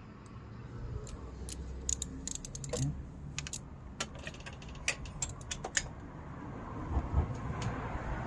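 Ratchet and magnetic spark plug socket being handled and fitted together: a run of irregular sharp metallic clicks and ratchet clicking over about five seconds.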